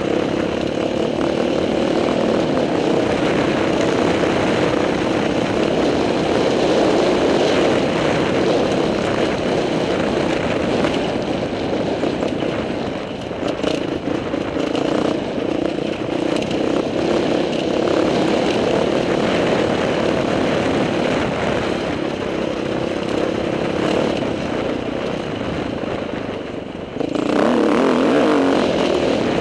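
Dirt bike engine running steadily as it is ridden along a rough trail, the throttle shifting now and then; near the end it is opened up and gets suddenly louder.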